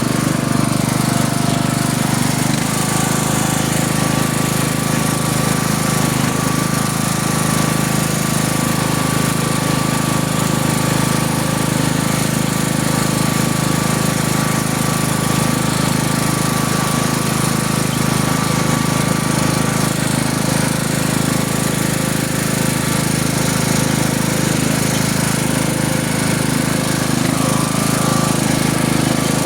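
A tractor engine running steadily under way, with a slight change in its pitch about two and a half seconds in.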